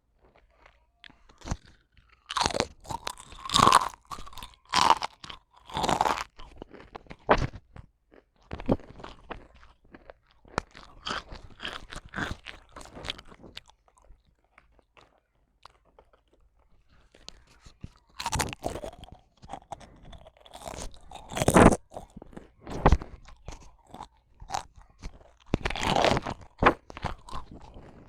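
Crunching and chewing of something crisp, in irregular clusters of sharp crunches with a pause of a few seconds about halfway through.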